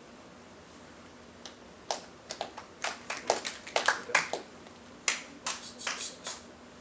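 A few people snapping their fingers: a scattered, irregular run of sharp snaps that starts about a second and a half in and stops about five seconds later.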